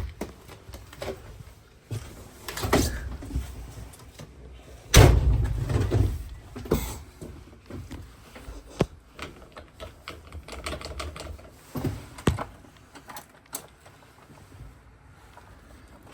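Door and handling noises on a fire truck before engine start: scattered clicks and knocks, with a heavy low thump about five seconds in and further sharp knocks later.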